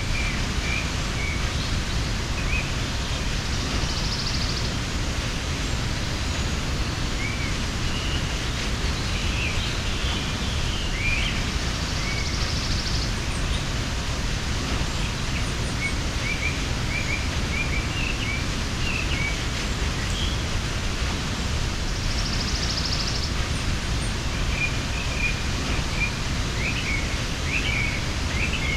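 Waterfall rushing steadily, with small birds chirping in short scattered calls over it and a brief high trill three times.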